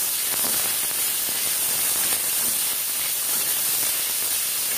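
Shrimp and garlic sizzling in hot oil in a wok, a steady hiss, with a wooden spatula stirring and scraping in the pan.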